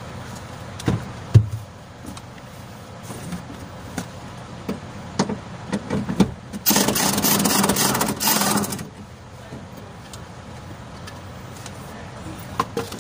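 Scattered clinks and knocks of hand tools on metal while parts of a truck cab are taken apart. About seven seconds in comes a loud rushing noise lasting about two seconds.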